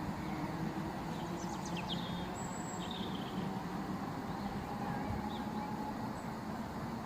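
Steady low rumble with a faint hum, and small birds chirping a few times, mostly in the first half.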